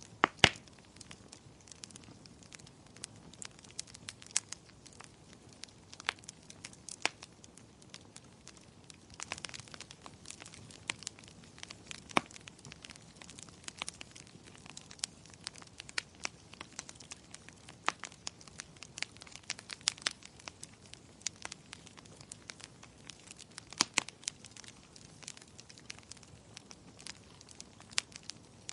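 Wood fire crackling, with irregular sharp pops and snaps over a faint steady hiss. The loudest pop comes about half a second in.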